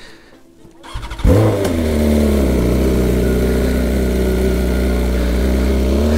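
Sport motorcycle engine started about a second in, catching with a brief rise in revs, then idling steadily.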